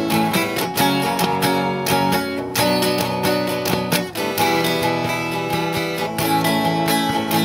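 Instrumental passage of a song with guitar chords strummed in a steady rhythm.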